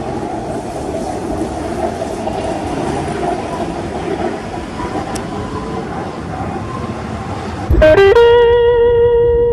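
Steady rumble of a moving commuter train; near the end a loud, sustained single-pitched tone starts abruptly and holds.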